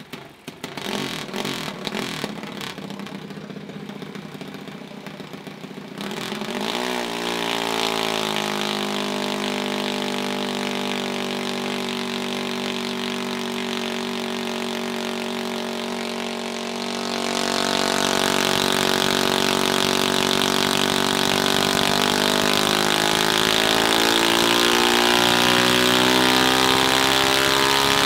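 Mini bike's small engine running. It pops and sputters for the first few seconds, then opens up about six seconds in and holds steady high revs. It gets louder again around two-thirds of the way through.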